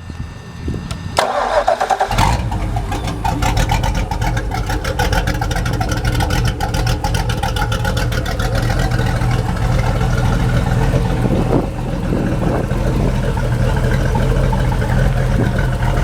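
Mercruiser 383 Magnum stroker MPI V8 marine engine cranked by its starter, firing about two seconds in and settling into a steady idle. A light clicking from the fuel injectors runs over the idle.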